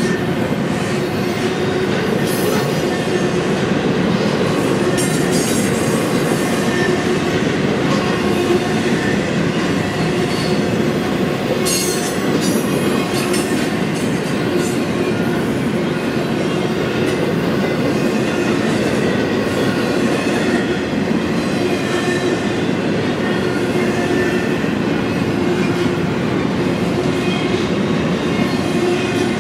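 Double-stack intermodal container train rolling past: a steady rumble and clatter of steel wheels on rail as the well cars go by, with a faint, thin wheel squeal ringing over it.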